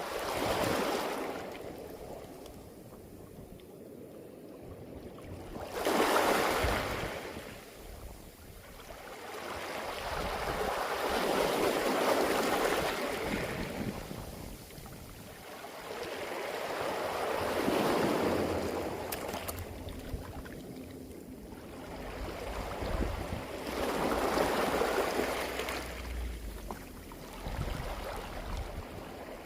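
Sea waves surging onto a beach of smooth round pebbles (mongdol) and washing back over the stones. Each wave swells and fades in turn, about every six seconds.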